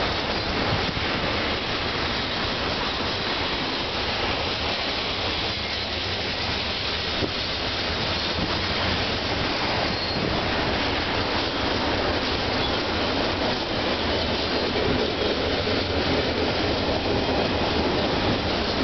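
Double-stack container cars of a freight train rolling past, a steady, continuous noise of steel wheels running on rail.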